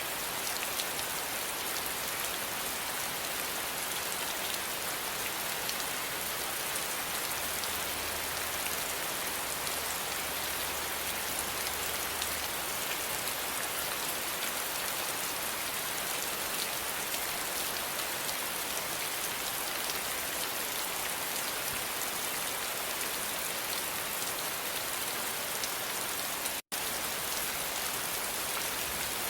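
Steady rain: a dense, even hiss with the fine patter of individual drops. It cuts out completely for a split second near the end.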